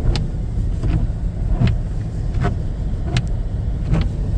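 Car driving, heard from inside the cabin: a steady low road and engine rumble, with a sharp click recurring about every three-quarters of a second.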